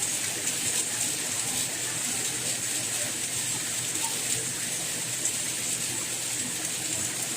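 Steady rain, an even hiss of falling drops with a few faint single drips.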